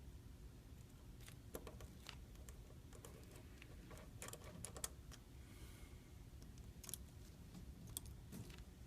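Faint, scattered small clicks and taps of tiny repair tools and parts against the opened iPhone 5c, a quick cluster about halfway through and single clicks near the end, over quiet room tone.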